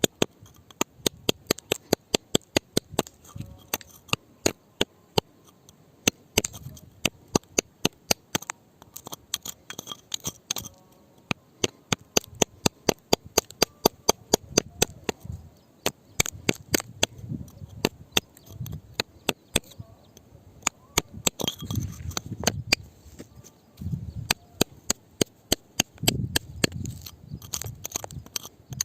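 Hard tool tapping on volcanic rock: a rapid series of sharp clinking strikes, about three a second, in runs with short pauses, and low rumbling handling noise between them.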